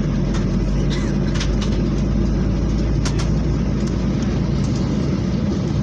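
Steady low drone and hiss inside an airliner's cabin on the ground before takeoff, from the aircraft's engines and cabin air, with a few faint clicks.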